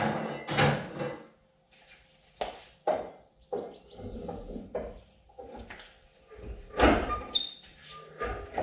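Irregular metal knocks, clanks and scrapes from hands-on work in a car's engine bay as a wedged part is worked loose. The heaviest knock, with a low thud, comes about seven seconds in, followed by a short squeak.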